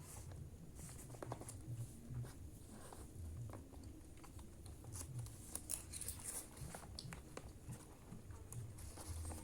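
Quiet eating sounds: chewing, with scattered small clicks and taps.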